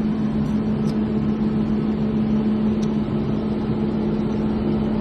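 Steady drone of a ferry's engines, an even, unbroken rumble with a constant low hum.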